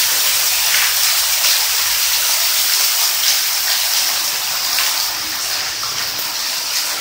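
Heavy rain pouring down and splashing onto a flooded concrete roof, making a loud, steady hiss.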